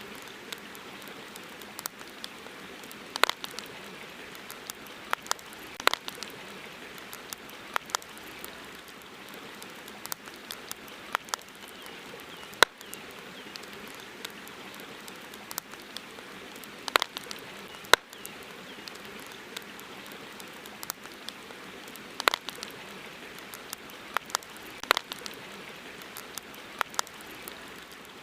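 Campfire crackling: irregular sharp pops and snaps, a few each second and some much louder than others, over a steady hiss.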